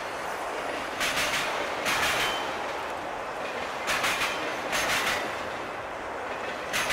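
A train rolling past slowly, its wheels clacking over rail joints in pairs of knocks that come about every three seconds, with steady rolling noise between them.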